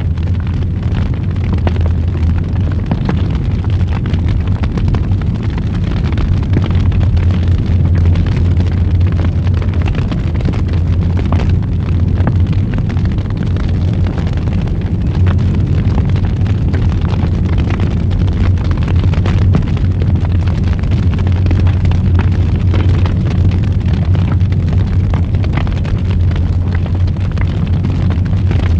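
Wood fire burning in a fireplace, with a steady low rumble under many small crackles and pops.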